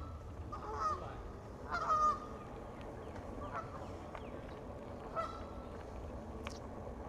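Geese honking: a few loud honks in the first two seconds, then fainter, spaced-out calls.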